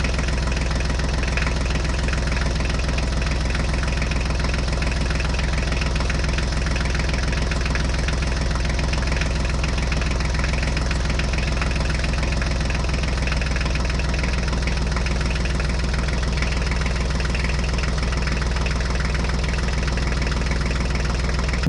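An engine running at a steady idle with a low, even knock, unchanging in pitch and level.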